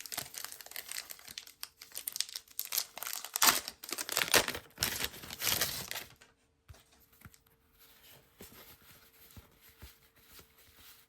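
A trading-card pack wrapper being torn open and crinkled for about six seconds, then quieter scattered clicks as the cards are handled.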